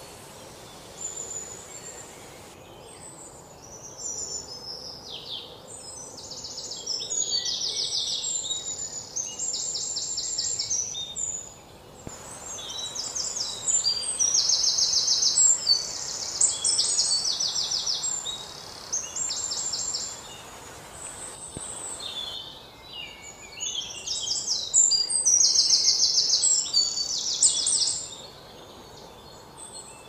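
Songbirds singing in a forest ambience: phrases of high, rapid trills and chirps repeating every few seconds, over a faint steady background hiss.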